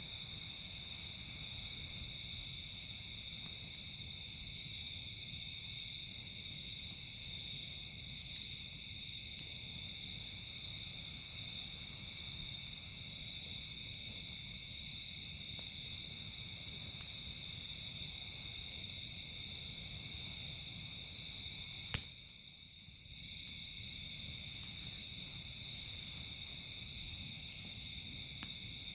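Outdoor insect chorus of crickets: a steady high chirring, with bursts of a higher trill every few seconds. A campfire crackles faintly underneath, with one sharp pop about three-quarters of the way through.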